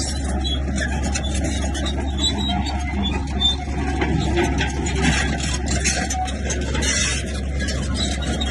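Heavy diesel earthmoving machine, a bulldozer, running steadily with a constant low engine rumble, overlaid with irregular rattling and scraping.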